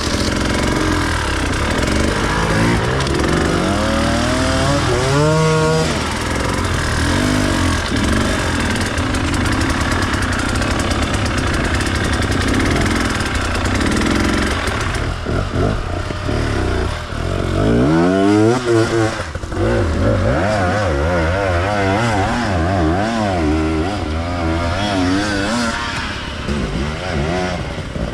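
Enduro dirt bike engine revving up and down, its pitch climbing sharply about five seconds in and again past the middle, then wavering quickly as the throttle is worked on and off.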